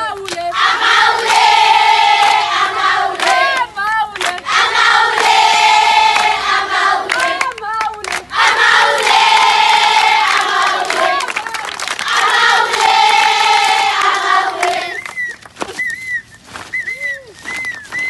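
A group of girls singing together in unison, in four long repeated phrases of a few seconds each. Near the end the singing stops and voices call out briefly.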